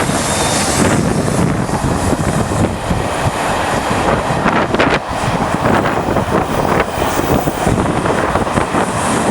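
A train running, heard under heavy wind buffeting on the microphone, a steady noisy rumble with a few brief knocks.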